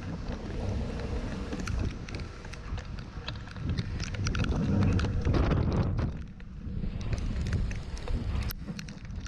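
Wind buffeting the camera microphone: a rough, gusting rumble scattered with many small clicks, loudest in a gust about halfway through.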